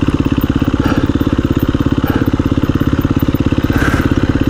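A KTM 350 EXC-F's single-cylinder four-stroke engine running steadily near idle, an even, rapid thumping with no revs.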